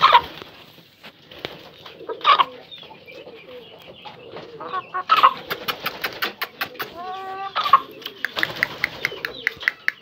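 Birds calling: several sharp, loud squawks a few seconds apart, then, from about eight seconds in, a fast run of short, evenly spaced calls at about four a second.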